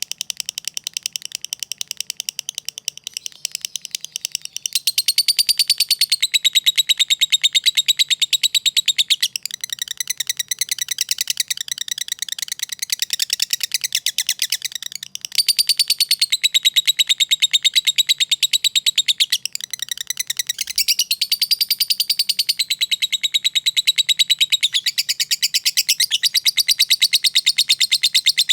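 Lovebird chattering in a long, unbroken stream of very rapid, high clicking chirps, the continuous 'ngekek' chatter that keepers prize. It swells louder and eases off in stretches of several seconds.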